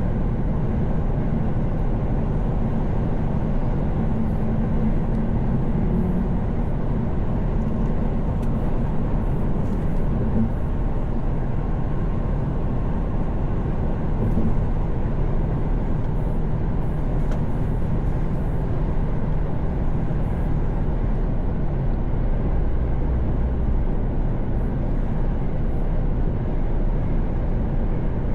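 Mercedes-Benz Actros truck cruising on the motorway, heard from the driver's seat: a steady engine drone under even tyre and road noise.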